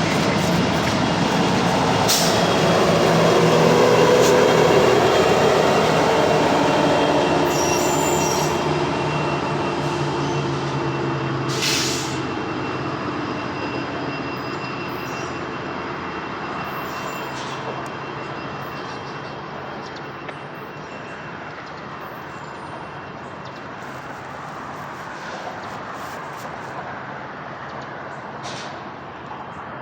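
A Norfolk Southern local freight train rolling past, its wheels running on the rails, with a couple of sharp clanks. It is loudest a few seconds in, then fades steadily as the train moves away.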